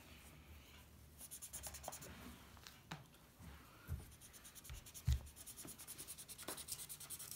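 Markers scratching faintly on paper as a drawing is coloured in, with a couple of soft thumps about four and five seconds in.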